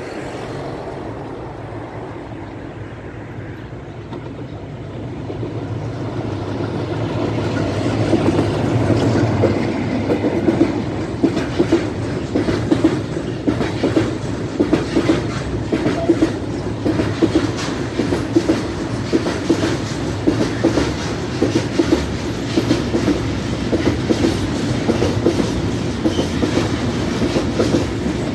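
Freight train passing close by. The rumble builds over the first several seconds as the head of the train arrives, then the wagons roll past with a steady run of wheel clacks over the rail joints.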